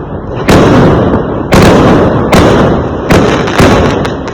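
Fireworks going off: a quick series of about five loud bangs, each dying away in a rumbling tail before the next.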